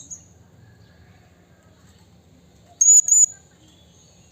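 Blue-crowned hanging parrot (serindit) giving a quick burst of three or four very high, sharp call notes about three seconds in.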